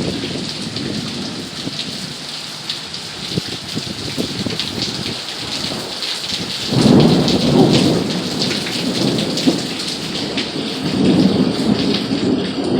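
Heavy monsoon rain pouring steadily. A low rumble comes in about halfway through and swells again near the end.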